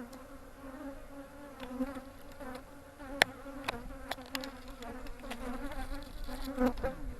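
Honeybees buzzing steadily around an open hive, a strong colony. A few sharp clicks break through, the loudest about three seconds in.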